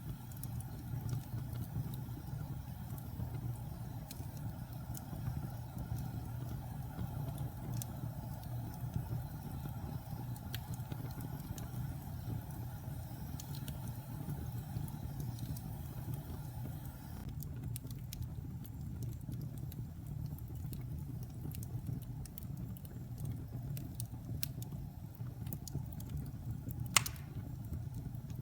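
Fire burning in a fireplace: a steady low rumble with scattered small crackles, and one sharp, louder pop near the end.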